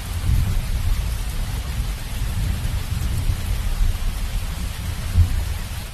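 Heavy rainstorm: a steady, dense hiss of rain with a strong, fluctuating low rumble of wind and thunder underneath. A louder low surge comes about five seconds in.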